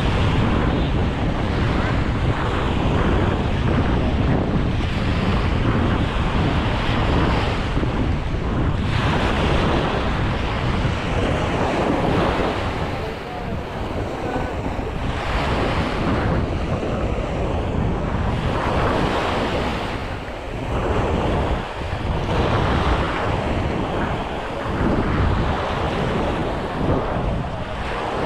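Sea waves washing onto a sandy beach, in swells every few seconds, with wind buffeting the microphone in a steady low rumble.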